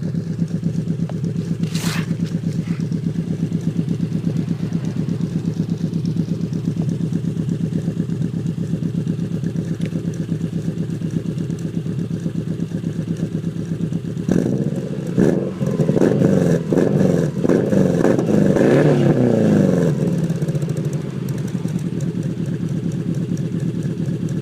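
Exhaust of a 2000 Subaru Impreza 2.5RS's 2.5-litre flat-four boxer engine idling steadily, then revved up and down in a series of quick blips for about six seconds past the middle before settling back to idle.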